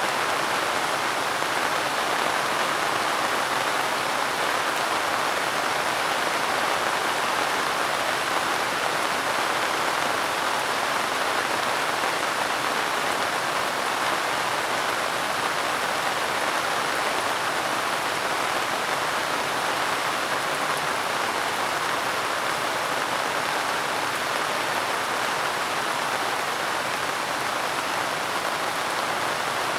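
Steady rain falling, an even hiss of many drops with no breaks or single loud hits.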